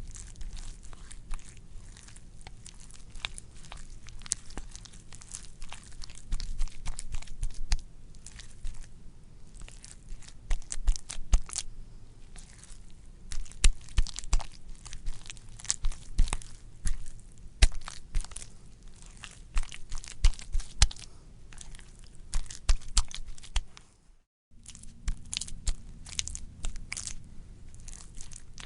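Wet, squishy material being squelched and worked, giving a dense run of irregular crackles, clicks and sticky pops in louder clusters. It breaks off for a split second about four seconds before the end, then resumes.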